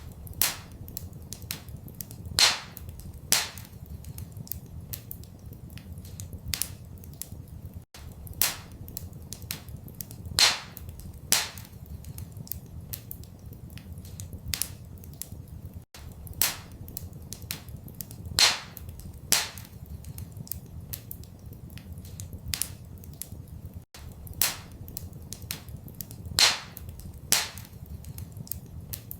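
Wood fire crackling in a fireplace: irregular sharp pops and snaps, some much louder than others, over a low steady rumble. It is a short recording looped every eight seconds, with a brief dropout at each seam.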